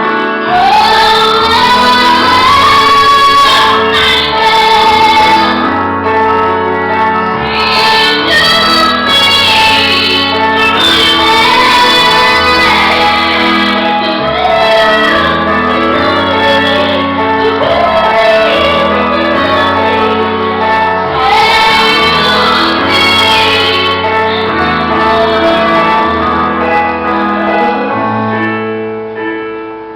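A woman sings a slow pop ballad over sustained piano chords. The voice stops near the end, leaving the piano playing alone.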